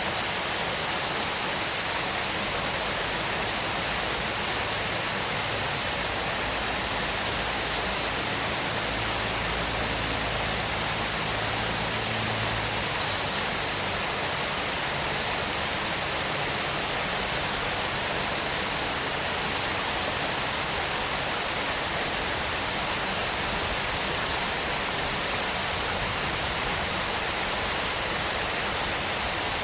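Waterfall: a steady, even rush of falling water, with a few faint short high chirps in the first half.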